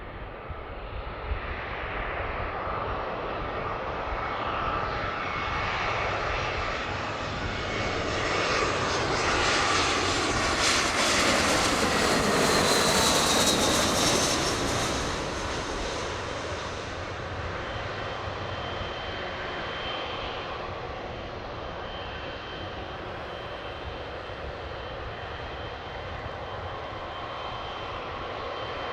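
Jet airliner on approach to land flying past: its engine noise grows louder, is loudest about twelve to fourteen seconds in, then fades as it goes away, leaving a lower steady jet sound with a faint high whine.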